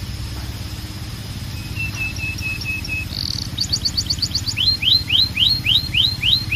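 Canary singing a run of varied phrases: a string of short repeated notes, a brief buzz, a fast high trill, then a series of downward-sweeping notes about three a second, growing louder toward the end. A steady low hum runs underneath.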